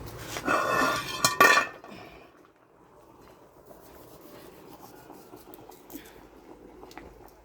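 Kitchen pots and dishes clattering for about a second and a half, with ringing metal tones and a sharp clink near the end of the clatter, then only faint handling sounds.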